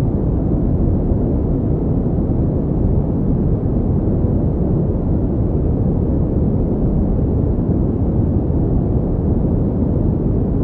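Steady pink noise: an even, deep hiss with most of its weight in the low end, unchanging throughout.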